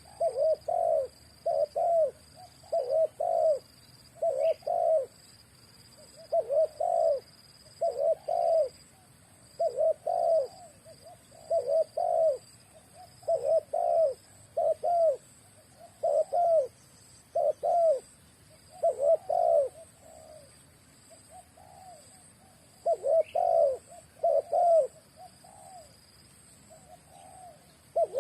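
A young spotted dove (terkukur), about eight months old, cooing over and over in short phrases of two or three low notes every second or two. There is a brief lull a little past the middle.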